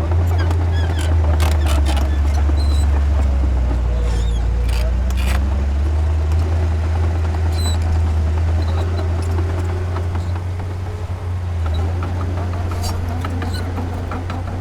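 Heavy diesel engine of earthmoving machinery running steadily under varying load, with a few short sharp knocks about a second in, around five seconds in, and near the end.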